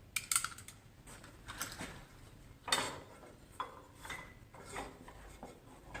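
Scattered metallic clicks and knocks as the drive belt is worked off a garden tractor's pulleys and handled, with one sharp knock about halfway through.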